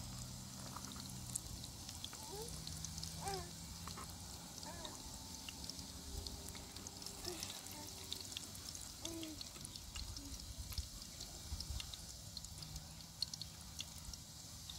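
Eggplant slices frying in hot oil in a pan: a steady crackling sizzle with scattered sharp pops, and light clinks of a metal spoon as the pieces are turned and lifted out.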